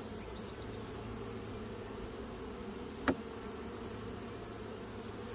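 Steady buzzing of a honeybee colony in an opened hive, with one sharp click about three seconds in.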